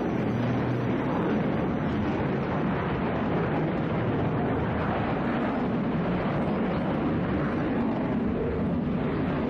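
Jet fighter engine roar from the Chengdu J-20 flying its airshow display: a loud, steady rushing noise with no break.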